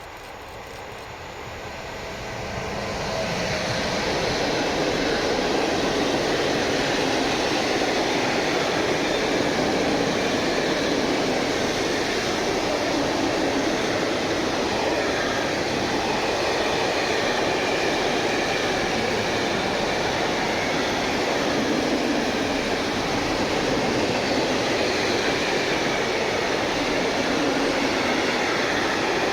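A train rolling past on the track: it grows louder over the first few seconds, then its wheel and running noise stays steady and loud as the cars go by.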